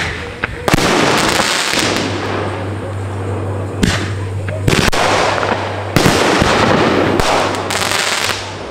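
Consumer fireworks going off: several sharp bangs, about a second in and again around four, five and six seconds in, with dense continuous crackling between them that dies down near the end.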